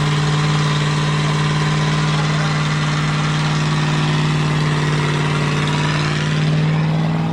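Car engine held at high, steady revs for about seven seconds in a burnout attempt, rising slightly near the end before the throttle comes off. The car is one that the onlookers say has no power.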